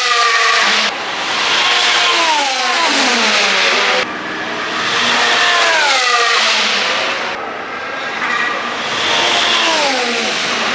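Racing car engines going by one after another, about four times, each high engine note sweeping sharply down in pitch as the car passes and slows.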